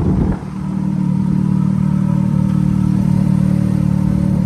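Ferrari F430's 4.3-litre V8 idling steadily, still warming up after a cold start, with a brief dip in level about half a second in.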